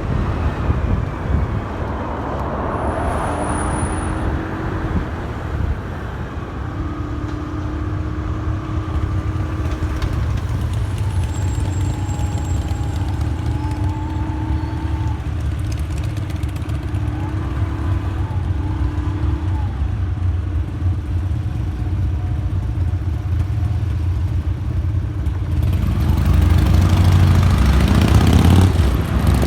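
Motorcycle engine running in city traffic, a steady low rumble with a few held tones, getting louder near the end.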